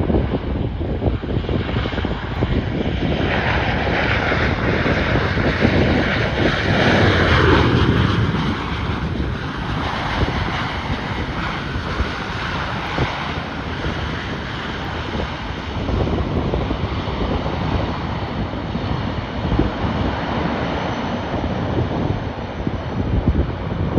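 Airliner engines passing, swelling to their loudest a few seconds in and then falling in pitch as the aircraft goes by. Wind buffets the microphone throughout.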